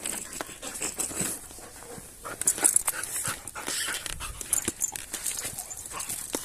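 A dog panting in quick, breathy huffs, with scattered short clicks and rustles.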